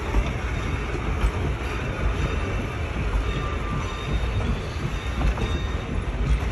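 Passenger coaches rolling past on the track: a steady rumble of steel wheels on rail, with a faint wheel squeal now and then.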